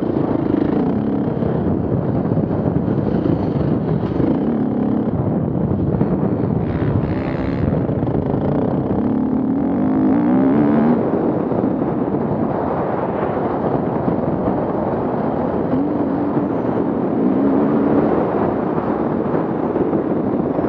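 Off-road vehicle engines running and revving, the engine note rising and falling several times over a steady rough rumble.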